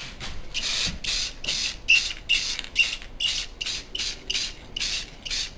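Aerosol spray can of clear coat sprayed in short repeated bursts, about two or three hissing puffs a second, each with a slight whistle from the nozzle.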